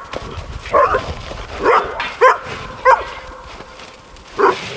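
A dog barking, about five short barks at uneven intervals.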